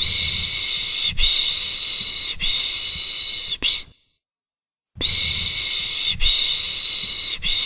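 A person shushing a baby to soothe it with the 'piş piş' sound, a run of long hissing 'shhh' strokes about a second apart. After a pause of about a second, a second run of strokes follows.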